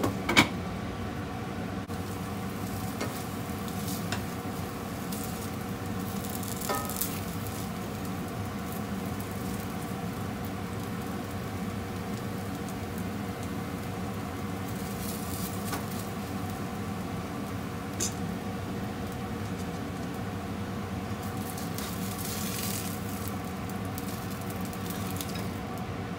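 Daikon radish cakes sizzling steadily as they pan-fry, under a faint steady hum. A sharp knock right at the start and a couple of lighter clicks come from utensils against the pan as the cakes are lifted out.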